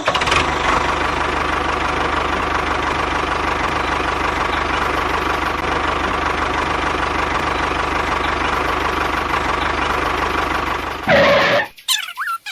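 A small engine running steadily with a fast, even knock. About 11 seconds in comes a short louder burst, then the engine sound cuts off sharply.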